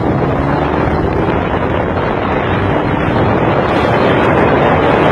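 Motorcycle riding at speed, wind rushing hard over the microphone with a steady low engine drone underneath.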